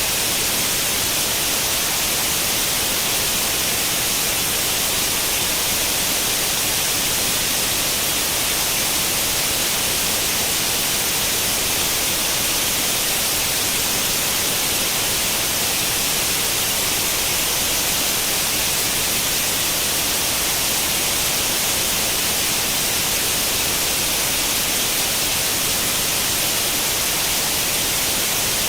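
Steady white-noise hiss like the static of an untuned analogue tube television, heaviest in the treble, with no change or break.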